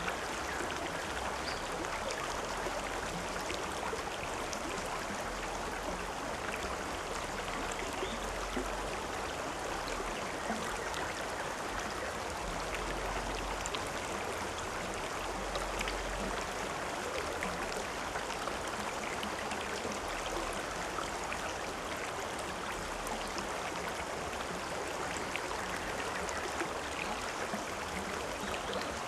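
River or stream water flowing steadily over rocks: an even rushing and babbling with small splashes, and a low rumble underneath.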